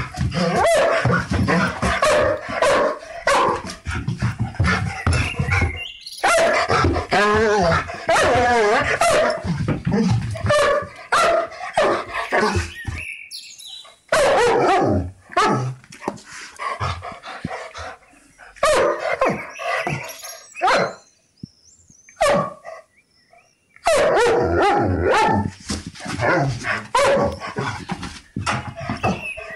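Several different dogs barking in turn, in separate loud stretches that stop abruptly about six, thirteen and twenty-two seconds in.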